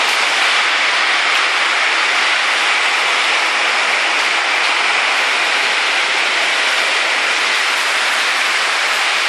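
Heavy rain pouring down steadily during a storm, an even hiss with no single impacts standing out.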